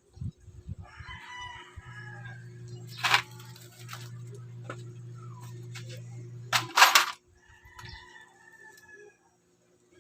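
A rooster crowing twice, a long crow near the start and a shorter one near the end. Between the crows a steady low hum runs, and two loud sharp knocks land about three and seven seconds in.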